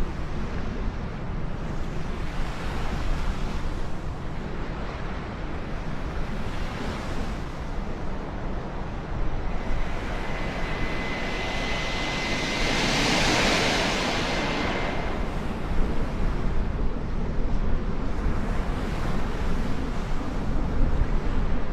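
Steady wind-like rumble, with an aircraft passing overhead about halfway through: its noise swells and fades over a few seconds, with a thin high whine at its loudest.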